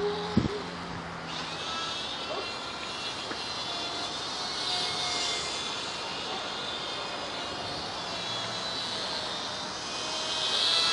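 WLToys F949 Cessna-182 RC plane's electric motor and propeller whining high-pitched in flight, swelling louder around the middle and again near the end as the plane passes closer, with wind noise on the microphone.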